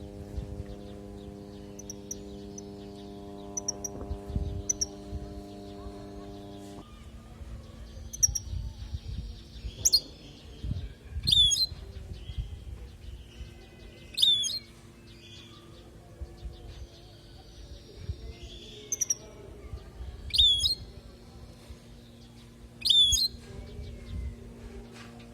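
European goldfinch singing: bursts of high twittering and sharp, quickly gliding notes, repeated every few seconds. A steady low hum runs underneath and changes pitch once, about a third of the way through.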